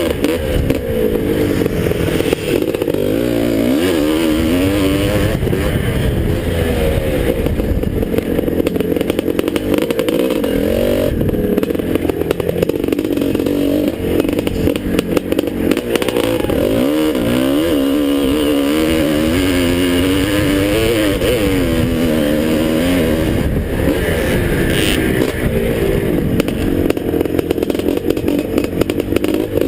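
1981 Husqvarna 430 two-stroke single-cylinder dirt bike engine being raced, its pitch climbing and dropping over and over as the throttle opens and closes and the gears change.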